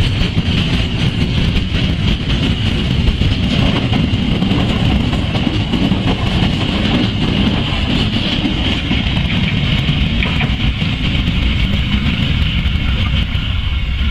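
Train of railway flat wagons rolling past close by: a steady loud rumble of wheels on the rails, with a steady high-pitched whine above it.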